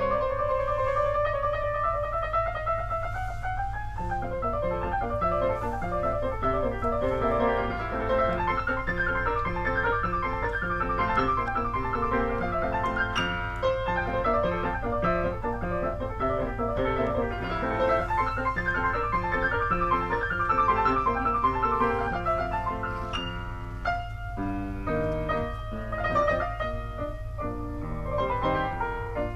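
Piano being played solo: a fast, many-note piece that opens with a rising run, over a steady low hum.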